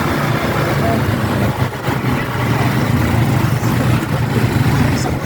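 Motorcycle engine running steadily as the bike is ridden, a continuous low drone with road and traffic noise around it.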